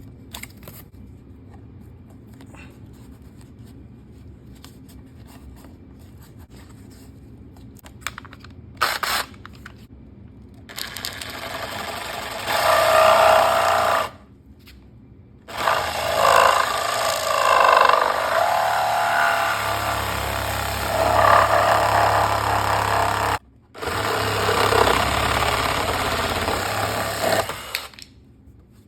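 Power tool cutting off a part of a Royal Enfield Himalayan motorcycle, run in three spells of several seconds each with short pauses between. Light clicks and handling noises come before the cutting starts.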